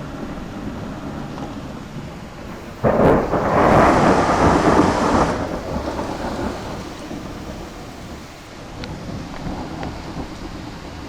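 A sharp thunderclap breaks out about three seconds in and rumbles for a couple of seconds before dying away, over steady falling rain.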